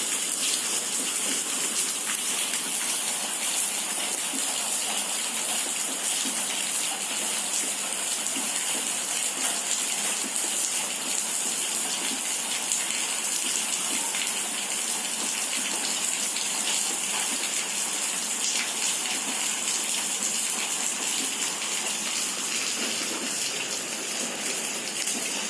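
Steady hiss of rainwater, even and unbroken, with no single drops or splashes standing out.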